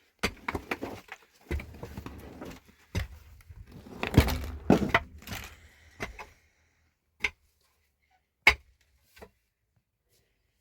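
A quick run of knocks and clattering as hard objects are handled, loudest about four seconds in, then three single sharp knocks a second or so apart.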